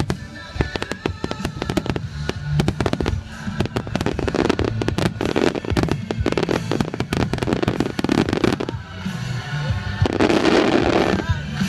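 Fireworks bursting in rapid succession, a dense run of bangs and crackles with a noisier burst about ten seconds in, over music.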